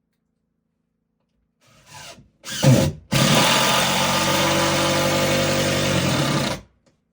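Electric power tool motor, such as a drill, running in two short bursts and then steadily for about three and a half seconds before stopping.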